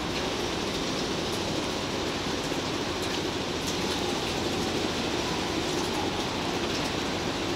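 Train of Chiki flatcars loaded with long rails rolling away along the track, a steady rolling noise mixed with the hiss of falling rain.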